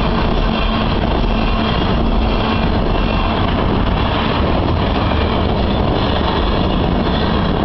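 Freight train cars rolling past: a steady, loud rumble of steel wheels on the rails as tank cars give way to a covered hopper and a flatcar.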